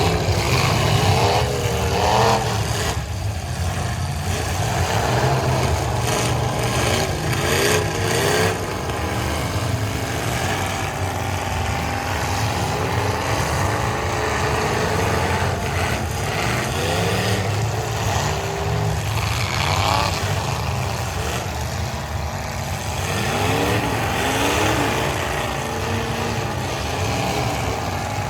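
Several demolition derby cars' engines running and revving, the pitch rising and falling repeatedly. Now and then there is a crashing impact as cars hit each other.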